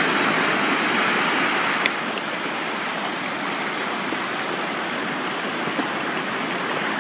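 Rushing, churning water, a steady noisy roar of a powerful current, with a sharp click about two seconds in, after which it is a little quieter.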